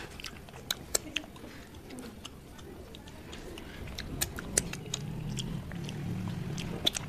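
Wet mouth sounds of eating rice and fish curry by hand: sharp lip smacks and chewing clicks, scattered and irregular. A low hum builds in the second half.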